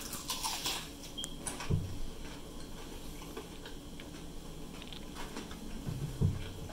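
A crunching bite into crispy fried chicken in the first second, then chewing with small scattered clicks, and two short low sounds about two and six seconds in.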